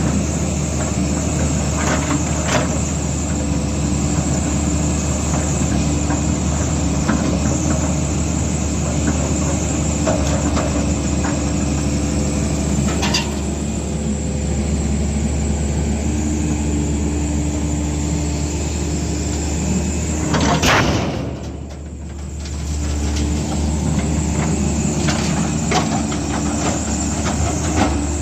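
Diesel engine of heavy earth-moving machinery running steadily, with scattered clanks and knocks. A brief louder surge about twenty seconds in is followed by a short dip before the engine sound settles back.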